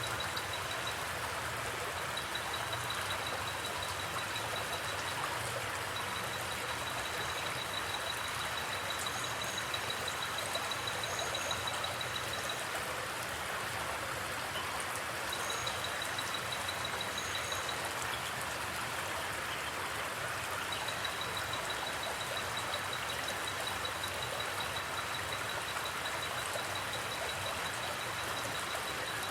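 Forest creek water flowing steadily. A high, rapid pulsing trill comes and goes in long stretches over the water, with a few short higher chirps around the middle.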